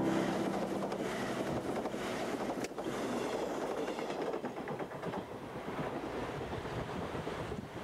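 JR Kyushu 485 series electric train running past and away, its rumble on the rails slowly fading, with one sharp knock nearly three seconds in. Wind buffets the microphone.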